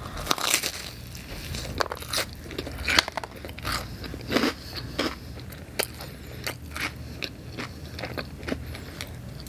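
A person chewing a bite of pizza topped with Hot Cheetos, with irregular crunches and crackles.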